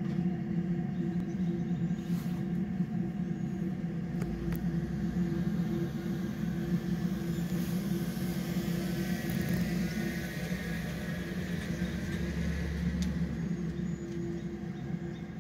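Steady low hum and rumble of an Amtrak passenger train's diesel locomotive approaching slowly from a distance.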